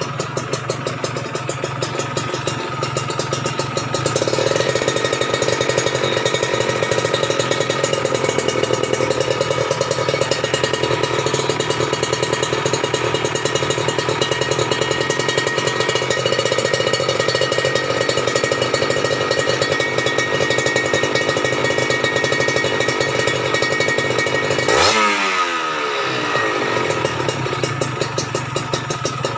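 Kawasaki Ninja RR's two-stroke single-cylinder engine running through an Aitech aftermarket exhaust, getting louder about four seconds in. Near the end the revs sweep quickly and it settles back to a slightly quieter idle.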